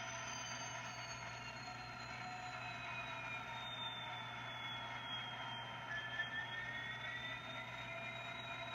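Model diesel locomotive running under its sound decoder during slow switching: a steady diesel engine drone with a whine that slowly falls and then rises in pitch.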